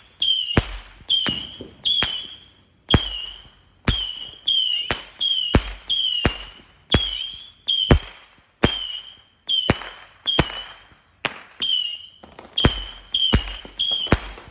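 A multi-shot repeater cake firework going off in a rapid series of loud bangs, about one every half second to one second. Each shot carries a brief high whistle.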